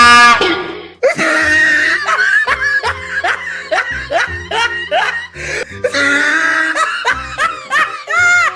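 A loud train-horn blast that cuts off about half a second in, followed by comic music with laughter.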